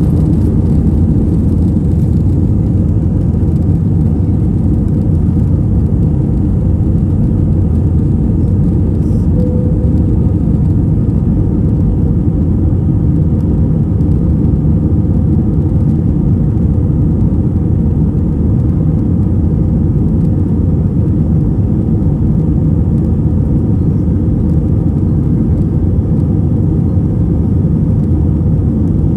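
Jet airliner heard from inside the passenger cabin during takeoff: a steady low rumble of engines and rushing air, unchanging throughout.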